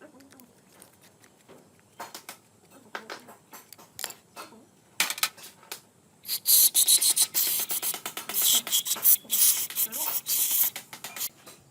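Hand scraping or rubbing on a hard surface in short, irregular strokes with clicks between them, becoming faster and louder about halfway through.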